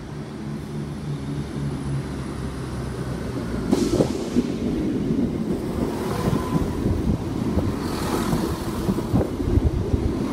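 Class 170 Turbostar diesel multiple unit pulling out. A steady engine hum gives way, about four seconds in, to a louder rumble with clicks and clatter from the wheels on the track.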